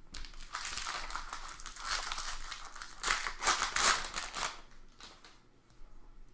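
Foil wrapper of a trading-card pack crinkling as it is torn open and pulled off the cards, loudest about three to four seconds in, then dying away.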